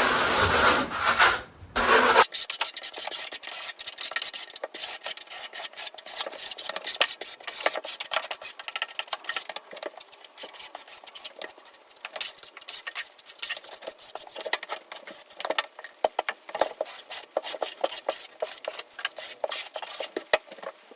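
Steel trowel scraping a thin base coat of thinset mortar across cement backer board: rapid, irregular back-and-forth scrapes, louder and fuller for the first two seconds.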